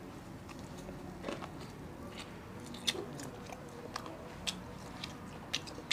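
A person chewing a mouthful of egg pancake rolled with salty pickles: small, irregular wet clicks and light crunches, picked up close by a clip-on microphone.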